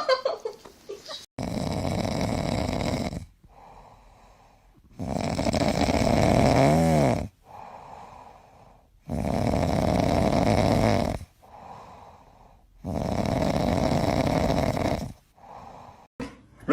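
A sleeping pet snoring: four long, rattling snores about every four seconds with quiet breaths between them. The second snore carries a short whistling wheeze that rises and falls.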